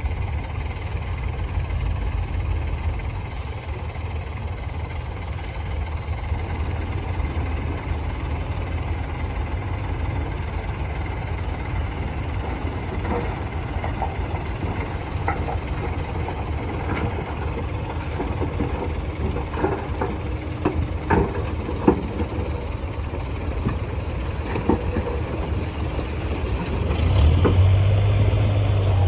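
Heavy diesel engine running steadily, with scattered sharp knocks through the middle. The engine grows louder near the end.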